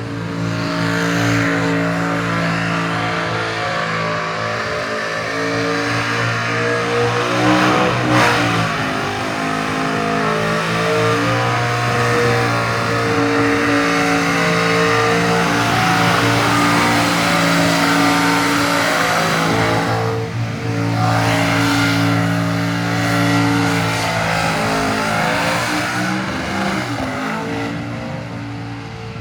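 Supercharged engine of a Holden VT Calais held at high revs during a burnout, running steadily with brief drops in revs about eight and twenty seconds in.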